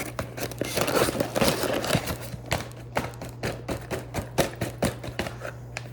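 A bag of microwave popcorn crackling and rustling, with irregular sharp pops and clicks throughout and a denser crinkly stretch about a second in, over a steady low hum.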